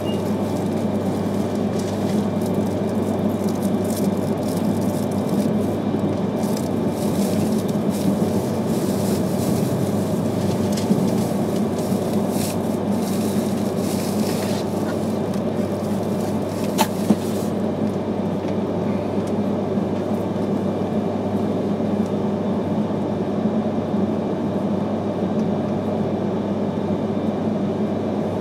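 Steady running noise of an E3 series Shinkansen train heard from inside the passenger car: a low rumble of wheels on rail with a hiss above it. A few short clicks from the running gear, the sharpest about two-thirds of the way in, after which the hiss eases a little.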